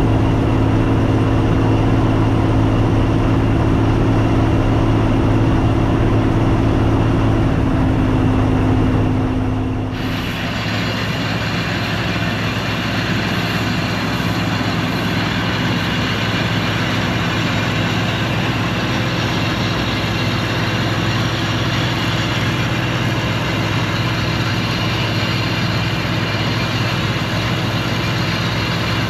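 Combine harvester running steadily, its engine and threshing machinery making a continuous drone. About ten seconds in, the tone changes abruptly.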